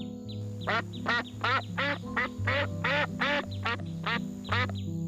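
Swan calling in a quick run of short honking calls, about three a second, stopping shortly before the end. Background music with held low notes plays underneath.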